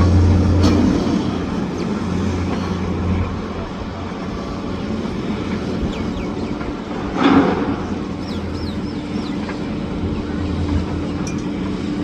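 Steady low engine hum of passing vehicles or machinery, with a louder swell about seven seconds in. A few short high chirps come just after it.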